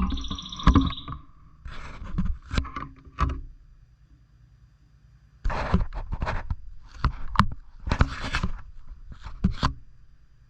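Pet lovebirds moving about in their cage: short bursts of scraping, rustling and knocking, with a few brief chirps near the start and a pause in the middle.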